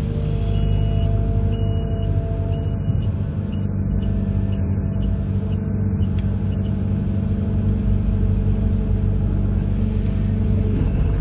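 Amphibious excavator's diesel engine running steadily, a continuous low rumble. A faint high beep repeats about once a second for the first six seconds or so.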